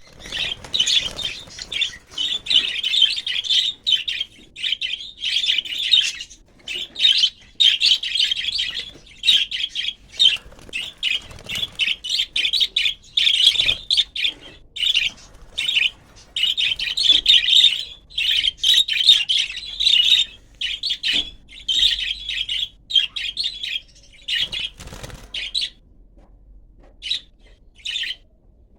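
Budgerigars chattering and warbling in quick, broken bursts, thinning to a few brief calls near the end.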